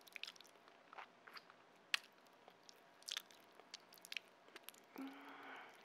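Mouth sounds of chewing a piece of white kimchi, close-miked: scattered wet smacks and crunchy clicks, the sharpest about two seconds in. Near the end there is a brief hummed note.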